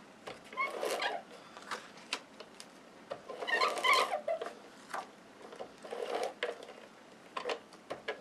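Small clicks and taps of paper being handled, with a few short squeaky calls from a pet animal about half a second in and again around three and a half seconds.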